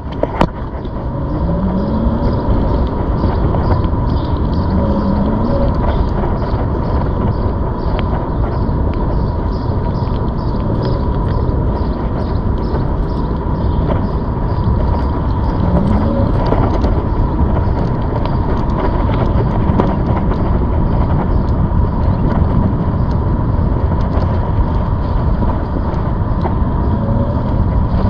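ZOOZ electric bike being ridden, with steady wind and riding noise strongest in the low end and a thin steady high whine.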